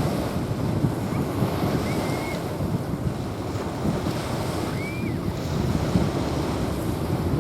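Small waves washing onto a sandy beach, with wind buffeting the microphone. Two faint, short high chirps, about two and five seconds in.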